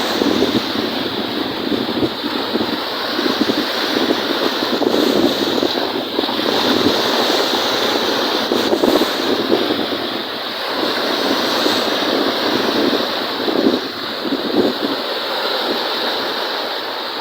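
Wind-driven waves on Lake Kariba splashing and surging, swelling and easing every few seconds, with wind buffeting the microphone.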